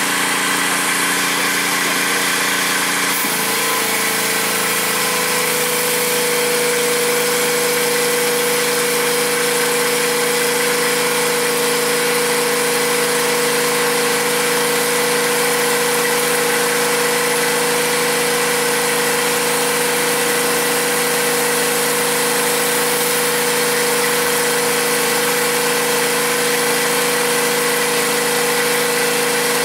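Small gasoline engine running steadily over a high hiss. About three seconds in its note shifts and a new steady hum settles in and holds.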